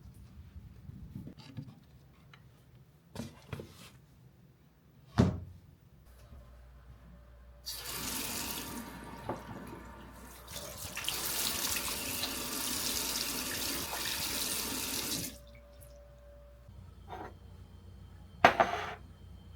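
Water tap running into a sink, first briefly and then for about five seconds. Sharp knocks come before and after it, the loudest about five seconds in and near the end.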